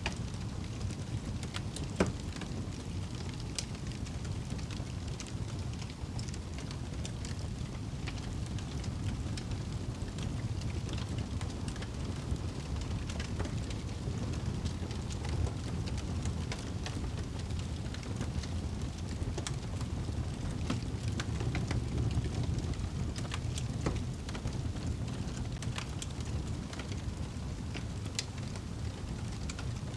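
Fireplace crackling: scattered sharp pops and ticks over a steady low rumble of the burning fire, with one louder pop about two seconds in.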